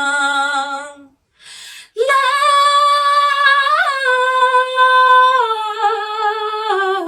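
A woman singing unaccompanied: she holds the last note of a line, takes an audible breath, then sings a long wordless high note that scoops upward midway and steps down twice near the end.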